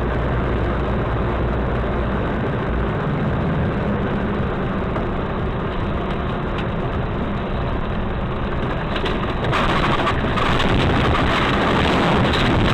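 Steady engine and road noise of a moving car recorded by a dashcam, with no distinct crash impact. About three-quarters of the way through it becomes louder and brighter.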